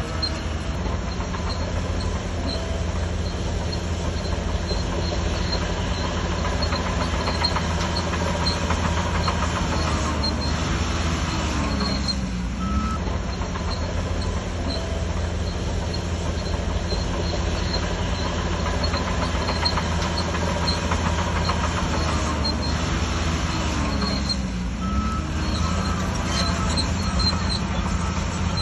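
Shantui DH17C3 crawler bulldozer working: the diesel engine runs steadily under load while the steel tracks clatter and squeak. The engine note dips and recovers twice, about halfway through and again near the end.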